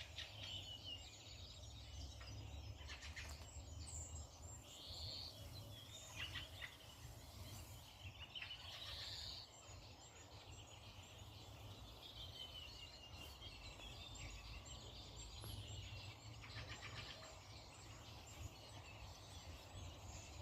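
Several wild birds calling and chirping, with short rising and falling whistled notes and a few quick rattling trills, over a steady low rumble.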